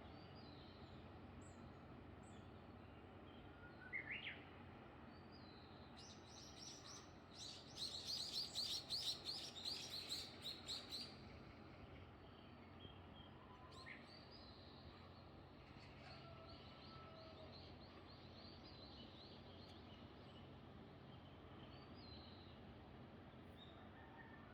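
Wild birds calling and singing faintly over a steady low background hiss: a short rising call about four seconds in, then a rapid run of high chirping notes lasting about three seconds, followed by a few scattered softer calls.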